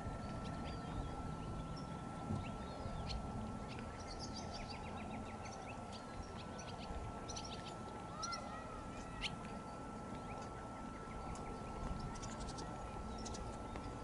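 Short, high bird chirps come in scattered runs, over a steady low rumble and a faint constant high hum.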